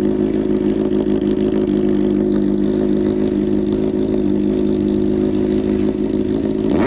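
Honda CBR motorcycle engine idling steadily, its pitch rising briefly near the end.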